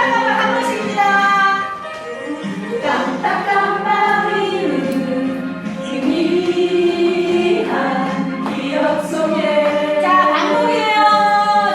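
A song with singing voices, several voices together, holding long notes.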